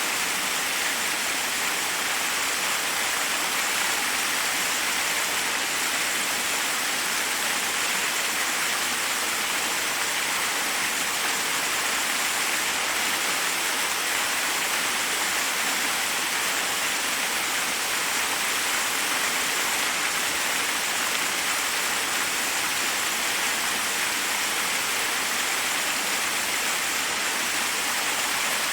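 Forest waterfall: water cascading over rocks in a steady, unbroken rush, mostly hiss with little low rumble.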